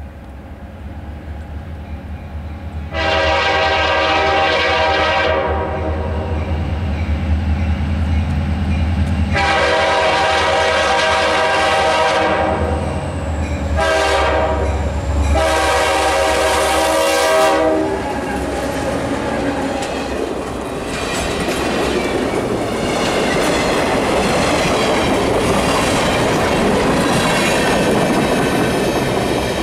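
A diesel freight train led by EMD GP40 and GP10 locomotives sounds its air horn for a grade crossing in the long, long, short, long pattern, over the steady rumble of its diesel engines. After the last blast the locomotives pass and the freight cars roll by with clickety-clack wheel noise.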